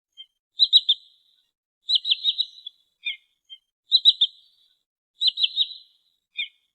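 Recorded sandpiper (trinil) calls played as a lure: four quick bursts of three or four sharp, high notes, with single short notes between them.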